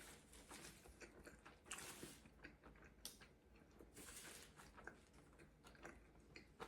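Faint biting and chewing of a quesadilla: soft mouth sounds and scattered small clicks, with one sharper click about three seconds in.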